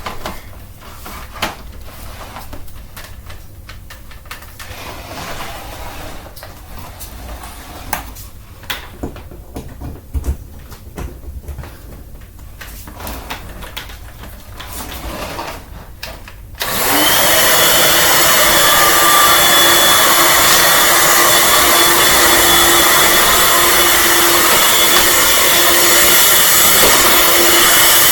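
Clicks and knocks of a Dirt Devil Simpli-Stik stick vacuum being handled, then about two-thirds of the way in its motor switches on, spins up briefly and runs loud and steady with a constant whine.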